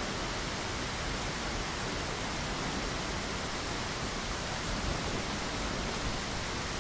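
Steady rain falling, an even, unbroken hiss without distinct drops or thunder.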